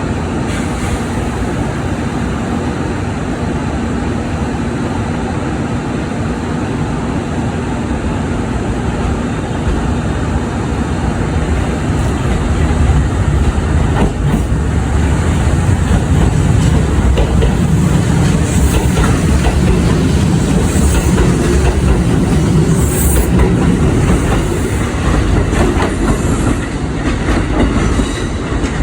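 Kintetsu 2444-series three-car electric train running on the track with a steady rumble and wheel clatter. It grows louder about halfway through, with a few brief high squeals in the second half.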